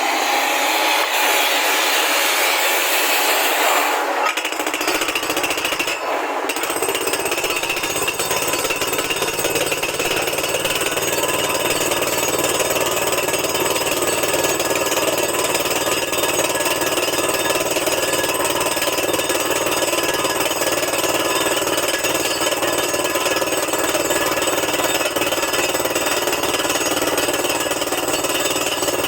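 Tractor-mounted borewell rig drilling rock with its air-driven hammer fed by a high-pressure compressor: a loud, steady hammering rattle with rushing air, a deeper rumble joining about four seconds in.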